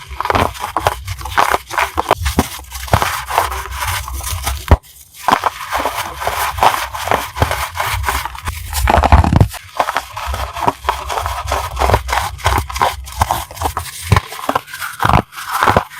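Crunchy chalk blocks being crushed, a dense run of dry crunches and crackles. There is a brief pause about five seconds in and a longer, louder crunch around nine seconds.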